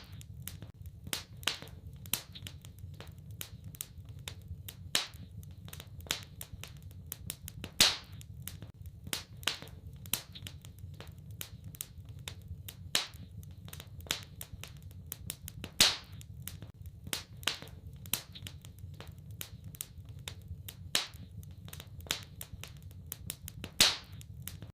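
Wood fire in a fireplace crackling, with many small clicks and a louder sharp pop every few seconds over a steady low rumble.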